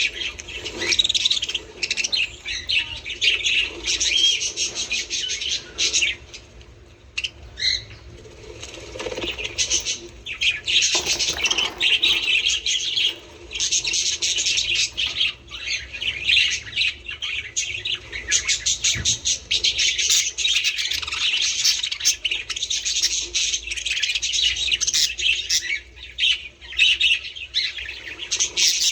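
A flock of budgerigars chattering and warbling, a dense run of quick chirps and squawks that scarcely pauses.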